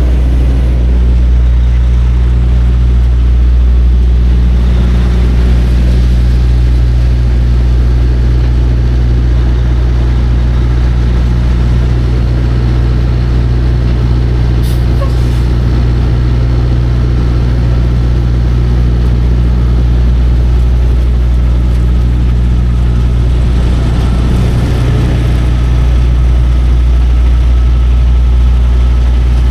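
Semi-truck's diesel engine running steadily, heard from inside the cab, with a strong low hum.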